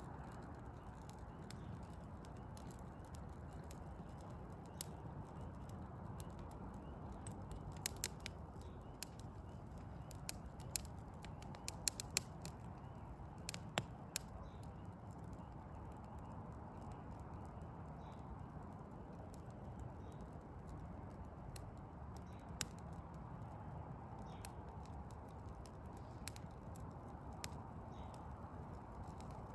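Wood fire of burning logs crackling: scattered sharp pops over a steady low rumble, with a quick run of pops from about eight to fourteen seconds in and only a few single ones after.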